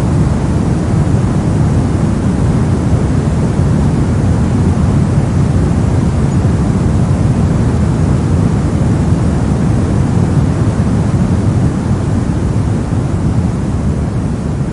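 Synthetic brown noise: a steady, deep rushing hiss that is strongest in the bass and thins toward the treble, easing down slightly in the last couple of seconds.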